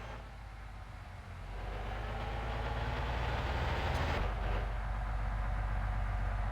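Heavy vehicle running, its rumble growing louder about one and a half seconds in, with a rushing noise that builds and then cuts off sharply about four seconds in.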